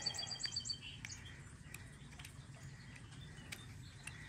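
A bird's quick trill of high chirps in the first second, then a few faint, scattered light clicks of pliers touching the metal governor's weights and valves.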